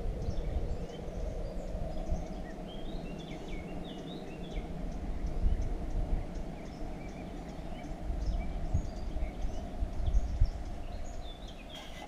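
Birds chirping in short calls, a cluster about three seconds in and more near the end, over uneven low rumble of wind on the microphone and a steady hum underneath.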